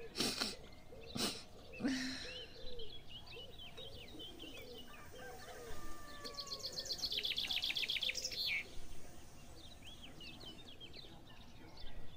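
Birds chirping, many short calls overlapping, with a fast trill about halfway through. A few short sharp sounds come in the first two seconds.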